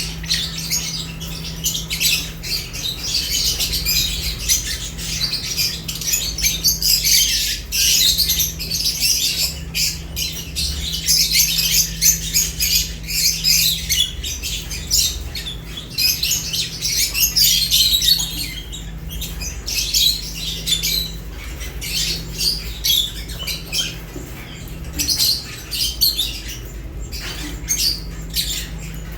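Several lovebirds chattering in rapid, high-pitched chirps and squawks, densest through the first two-thirds and thinning out after about twenty seconds. A steady low hum runs underneath.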